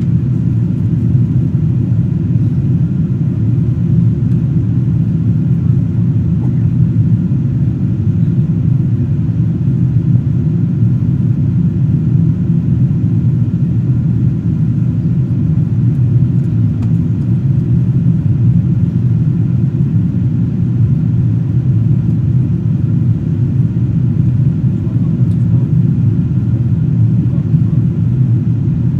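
Steady low rumble of a Boeing 777-200ER's cabin in flight: engine and airflow noise heard from an economy window seat, unchanging throughout.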